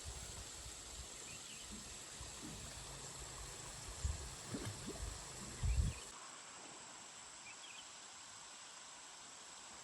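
Quiet outdoor background with a steady high hiss and a thin high drone, with a few dull low thumps about four to six seconds in; the low rumble of the background stops suddenly about six seconds in.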